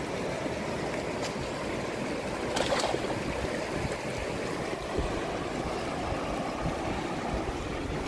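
Fast-flowing river water rushing steadily, with a brief louder burst of noise near three seconds in.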